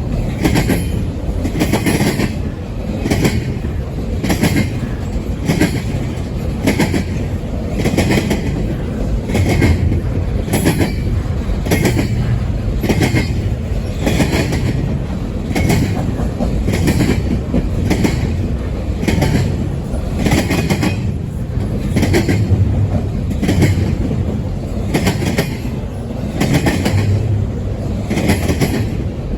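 Double-stack intermodal freight cars rolling past, a steady rumble with wheels clicking over rail joints roughly once a second.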